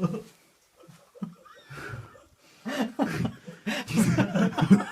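People chuckling and laughing softly.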